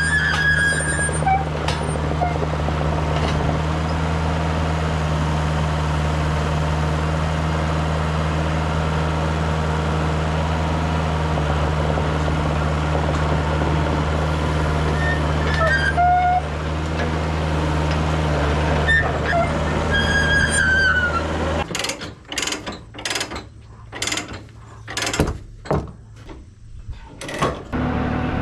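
Diesel engine running steadily with a few brief high squeals over it, then stopping abruptly a little past twenty seconds in, followed by a string of separate knocks and thumps.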